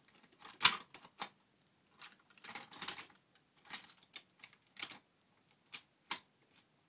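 Plastic toy trains and track handled by hand: a dozen or so light, irregular clicks and small clatters.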